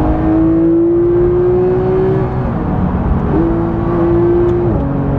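Porsche 991 GT3's naturally aspirated flat-six heard from inside the cabin under acceleration, over steady road noise. Its note climbs steadily for about two seconds, eases off, pulls again, and then drops suddenly in pitch near the end.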